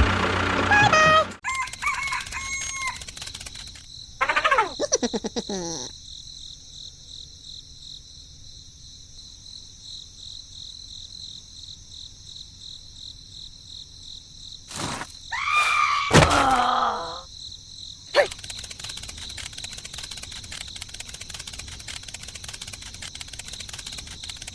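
Insects chirping steadily, with a rooster crowing twice, once about four seconds in and again more loudly near the middle.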